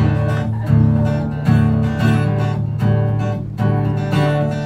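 Acoustic guitar strummed in a steady rhythm of chords, the instrumental intro of a country song before the vocal comes in.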